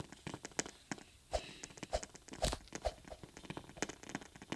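Irregular soft clicks and crackles, several a second, with one louder click about two and a half seconds in.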